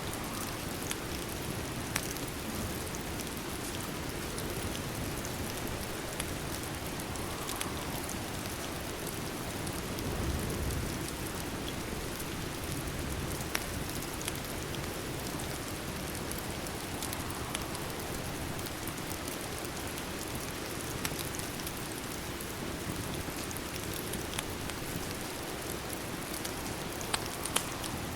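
Steady rain with scattered sharp pops from a crackling fireplace, and a brief low rumble about ten seconds in.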